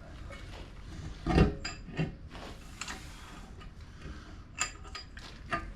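Metal rear-differential parts being handled and knocked together: a heavy clunk about a second and a half in, then lighter clinks and scraping, with a short metallic ring toward the end.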